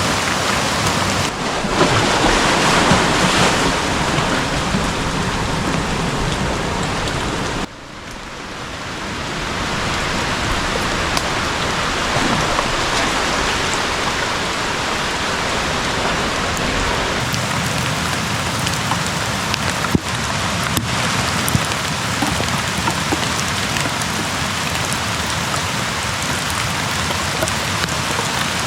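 Steady rain falling, a dense even hiss of drops. The level drops suddenly about eight seconds in, then builds back over the next two seconds.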